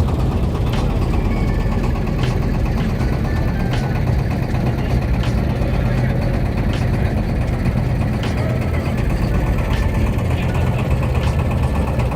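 An engine running steadily at an even speed, with a faint click about every second and a half.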